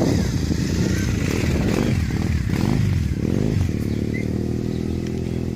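Motorcycle engine running, its note shifting and uneven for the first three and a half seconds, then settling into a steady tone.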